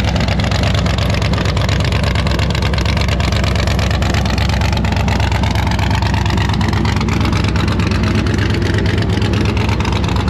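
A vehicle engine running loudly and steadily, its pitch slowly sinking and then climbing again over several seconds.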